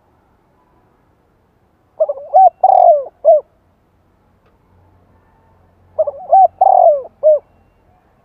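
Spotted dove cooing: two song phrases about four seconds apart, each a quick run of several coos.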